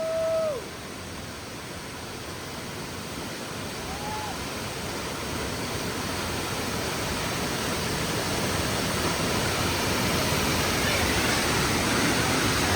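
Waterfall pouring into a pool, a steady rush of falling water that grows gradually louder. A short held voice sound at the very start and a brief one about four seconds in.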